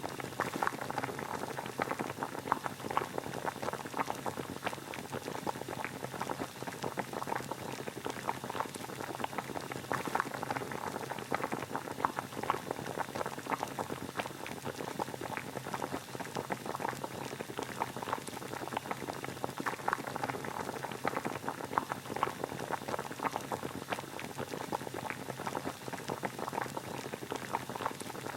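Water boiling: a steady, dense bubbling made of many small pops.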